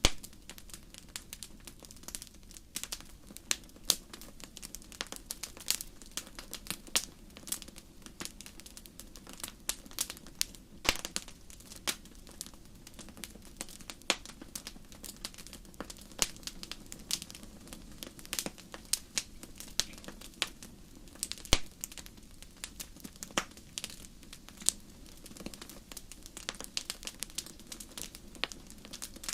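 Wood fire crackling in a fireplace: dense, irregular snaps and pops over a low steady rumble of the flames.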